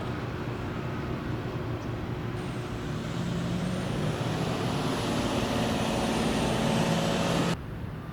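Road traffic with a motor vehicle's engine passing close, growing louder over several seconds and cutting off suddenly near the end.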